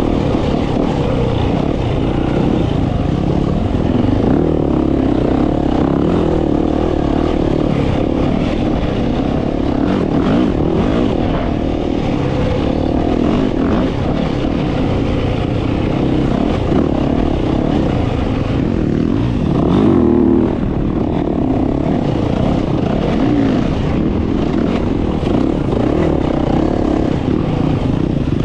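Dirt bike engine running hard while riding a trail, loud and continuous, its revs rising and falling as the throttle is worked, with a short surge near the end.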